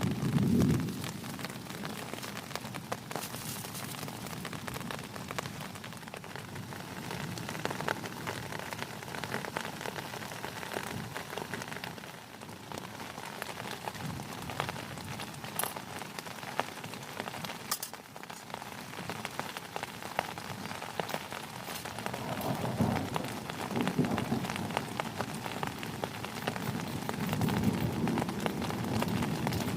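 Heavy rain falling steadily, a dense patter of drops, with a low rumble at the start and again swelling through the last third.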